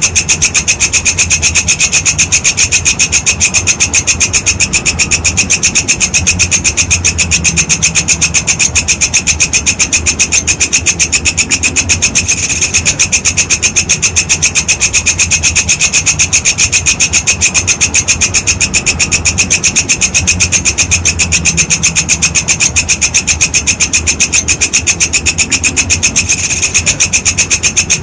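Walang kecek (belalang kekek) insect stridulating: a continuous rasping train of rapid, even pulses, several a second, with brief dips about 12 and 26 seconds in.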